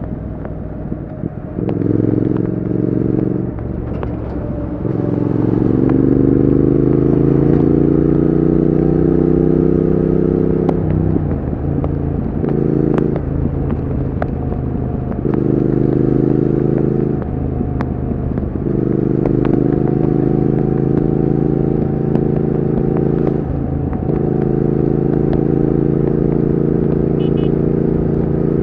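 Triumph Speed Twin 1200's 1200 cc parallel-twin engine and exhaust while being ridden, pulling under throttle with the pitch climbing slowly. The note drops away briefly several times, as at gear changes or throttle lifts, before picking up again.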